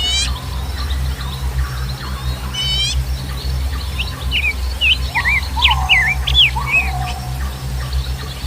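Several wild birds calling: a quick descending run of high chirps at the start and again near 3 seconds, then a burst of short, varied whistled notes over lower gliding calls around the middle. A steady low rumble runs underneath.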